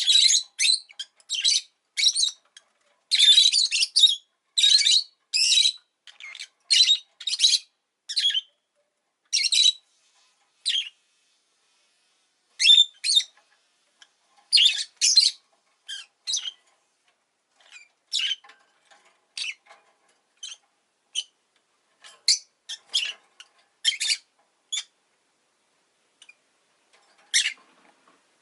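Rosy-faced lovebird calling: a long series of short, shrill chirps, thick and rapid for the first ten seconds or so, then more spaced out with gaps of a second or two.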